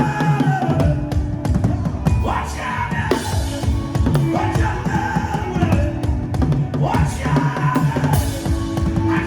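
Drum kit played in a busy, driving beat of bass drum and snare, with a pitched melody line gliding above it.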